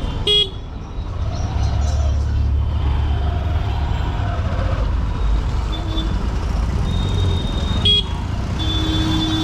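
Single-cylinder engine of a Honda SP125 commuter motorcycle running in city traffic, with a steady low drone of engine and road noise. Vehicle horns toot several times over it, with short sharp blasts about half a second in and near the end.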